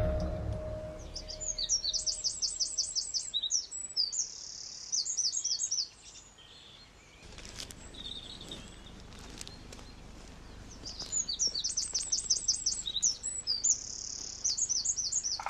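Small songbird singing in woodland: two high, fast phrases of rapidly repeated notes with a short held trill, the second starting about eleven seconds in.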